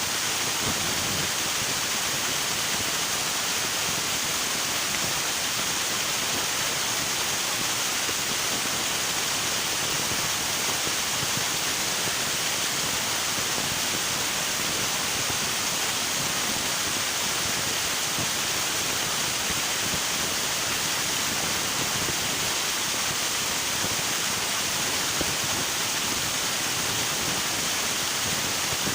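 Steady rush of flowing river water, an even, unbroken hiss with no separate splashes or changes.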